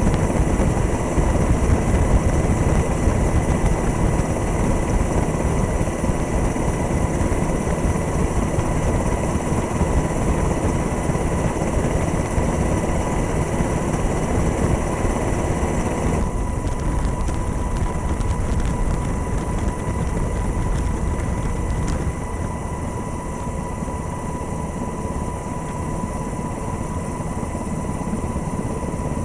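Helicopter noise heard from the aircraft itself: a loud, steady drone of engine and rotor with a thin high whine over it. It eases slightly about halfway through and again a little later.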